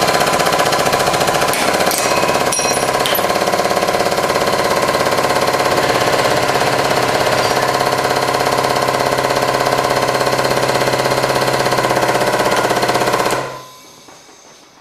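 Hydraulic press pump running with a loud, steady, rapidly pulsing drone as the press crushes an aluminium engine piston, with a few sharp cracks about two to three seconds in. The drone cuts off abruptly near the end.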